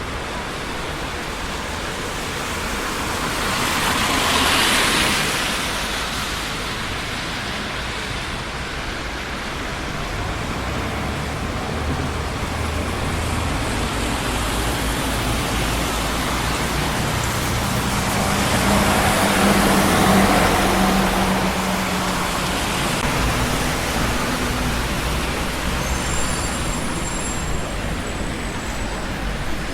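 Busy city street traffic: a steady rush of tyres and engines, with vehicles passing close by about four seconds in and again near twenty seconds in, the second with a low engine hum.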